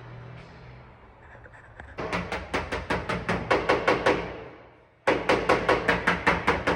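A body hammer tapping rapidly on the truck's sheet-metal bed panel to work out the dent, about six sharp blows a second. The taps come in two runs with a short break about halfway through.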